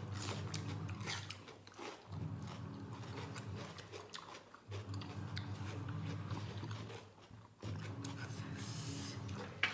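Raw cucumber being bitten and chewed: repeated short crisp crunches.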